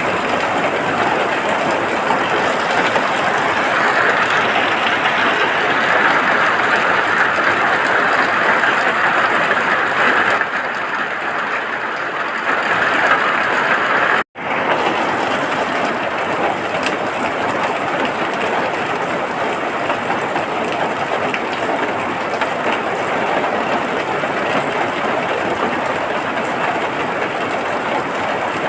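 Steady heavy rain, an even rushing hiss with no pauses, cutting out completely for a split second about halfway through before resuming.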